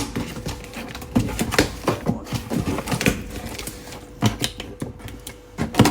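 Cardboard grocery box being cut and pried open by hand: an irregular clatter of clicks, knocks and scrapes, with louder knocks about a second and a half in and again near the end.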